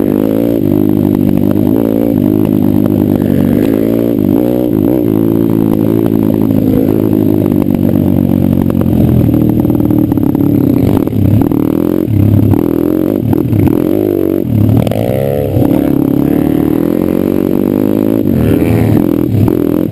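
Pit bike engine running hard as the bike is ridden off-road, its pitch rising and falling with the throttle. In the second half the throttle is chopped and opened again several times in quick succession.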